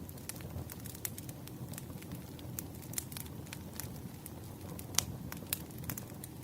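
Fireplace fire crackling: frequent irregular sharp pops and snaps over a low steady rumble, with one louder pop about five seconds in.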